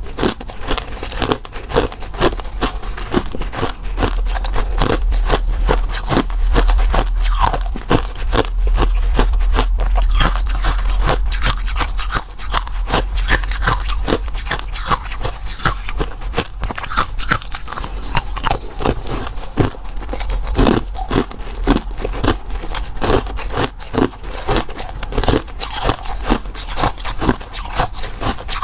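Close-miked biting and crunchy chewing, a dense run of crackling crunches several times a second with no pause.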